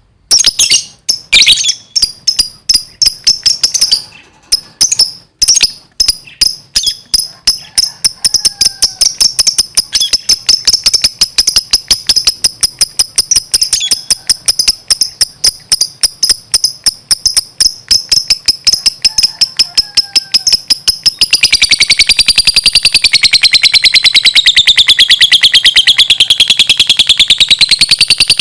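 Lovebird chattering in rapid, high-pitched chirps. It starts in broken runs, and about two-thirds of the way through it merges into one long, unbroken trill with a wavering pitch: the sustained 'ngekek' chatter of a lovebird in full song.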